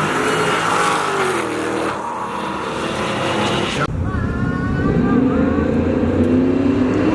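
Car engines running and revving, their pitch gliding up and down. About four seconds in the sound changes abruptly, and after that one engine's note climbs steadily.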